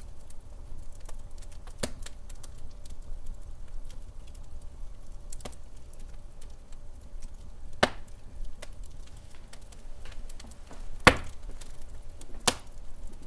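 Wood fire in a fireplace crackling, with sharp single pops every two to three seconds, the loudest about eleven seconds in, over a steady low rumble.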